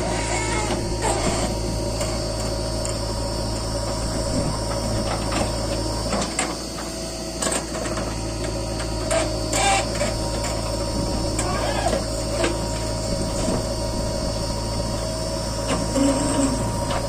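JCB 3DX backhoe loader's diesel engine running steadily with a constant hum and a steady whine, and scattered short knocks and clanks from the working machine.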